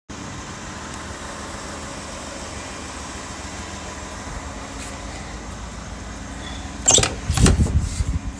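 1991 Chevy K1500's 5.7 L TBI V8 running steadily at idle; the owner suspects a vacuum leak. About seven seconds in, a loud burst of knocks and rattling lasts a second or so.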